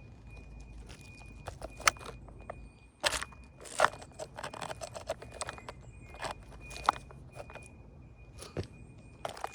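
A string of irregular clicks, knocks and crunches, like handling or footsteps close to the microphone, over a faint steady high-pitched whine.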